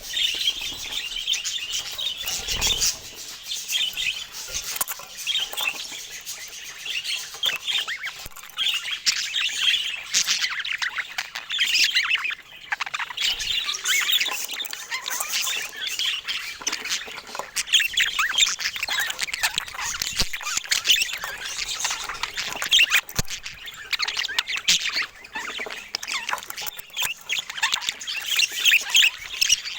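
A flock of small parakeets chattering, with a dense, continuous mix of chirps, warbles and squawks, and scattered sharp clicks throughout.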